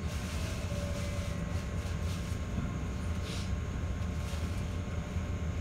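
JR 211-series electric train moving slowly, heard from inside the car: a steady low rumble with faint steady high whines, and a short hiss about three seconds in.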